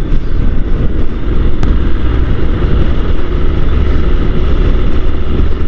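Motorcycle engine, the Honda NC750 DCT's parallel twin, running steadily on the move, under heavy wind rush on the helmet microphone. A single brief click comes about one and a half seconds in.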